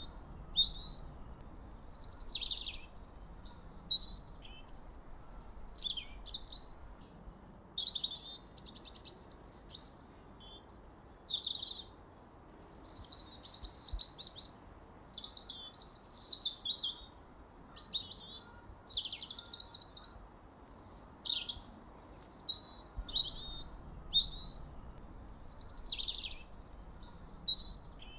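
Songbirds singing: a busy run of short, high phrases of falling whistles and trills, one after another with only brief pauses.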